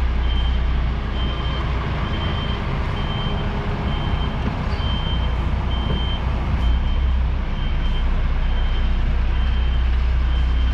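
Lorry's reversing alarm beeping steadily, about one and a half beeps a second, over the low, steady running of its diesel engine while the HGV reverses.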